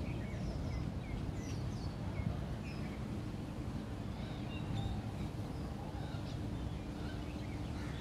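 Several small birds chirping in short, scattered calls over a steady low background rumble.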